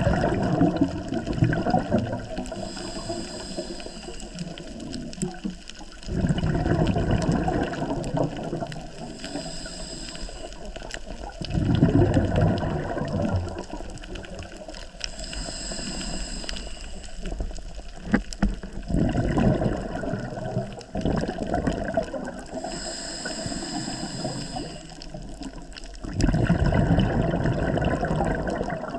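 Scuba diver breathing through a regulator underwater. Exhaled bubbles gurgle and rumble out in five bursts, one every six to seven seconds, and in between each inhalation through the regulator gives a thinner, higher hiss.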